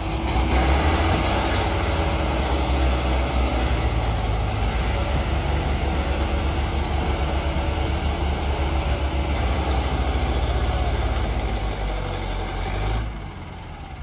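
Tractor diesel engines running hard under load, straining to pull a stuck, loaded trailer free. The engine noise drops off near the end.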